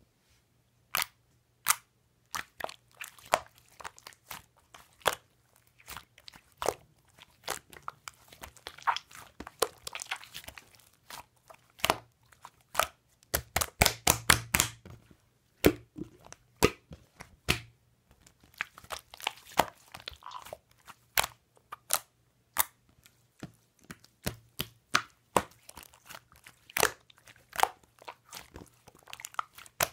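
Slime being pressed and stretched by hand, giving irregular sharp pops and crackles with short pauses between them, thickest about halfway through.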